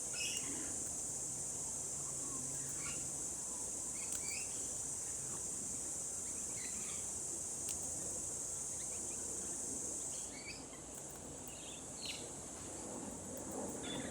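Steady high-pitched insect drone, like cicadas or crickets, that cuts off abruptly about ten seconds in. Short bird chirps come through here and there.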